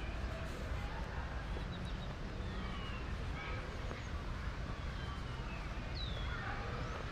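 City and park ambience: a steady low hum with small birds chirping in short high glides over it, one clear falling chirp about six seconds in, and faint distant voices.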